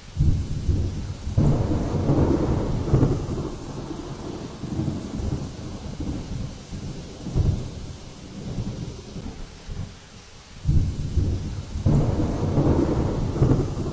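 Storm noise: a steady hiss of rain with heavy low rumbles that swell and fade in several surges.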